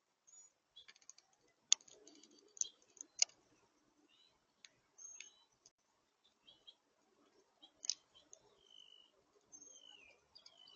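Wild birds giving short high chirps and a few whistled notes that slide down, mixed with several sharp clicks, the loudest about two, three and eight seconds in.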